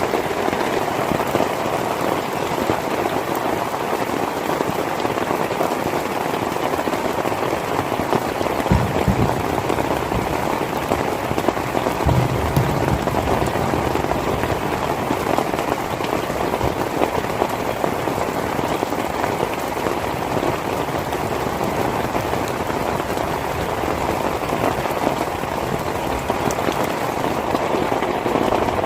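Heavy rain falling steadily in a dense, even downpour. A few brief low thumps sound about nine seconds in and again around twelve seconds.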